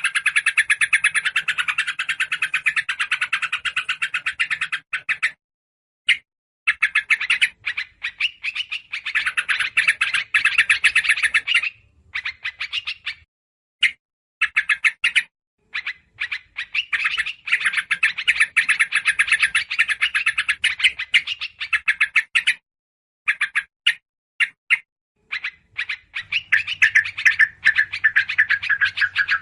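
Agitated chattering of small songbirds, a bird-lure recording of yellow-vented bulbul (trucukan) calls mixed with other small birds: dense runs of rapid, overlapping chirps with a few brief pauses. This noisy alarm-type chatter is meant to draw wild birds in.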